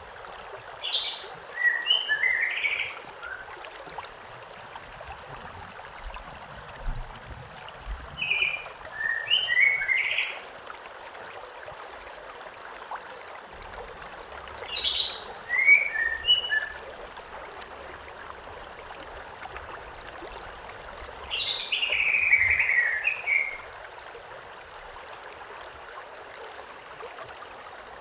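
A stream running steadily, with a songbird singing a short chirping phrase four times, about every six to seven seconds.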